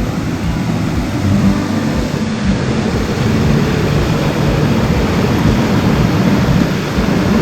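Mountain stream water rushing steadily and loudly.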